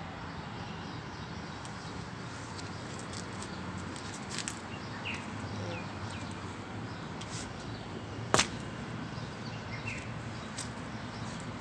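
Steady background noise with a few faint, short bird chirps, and one sharp click about eight seconds in.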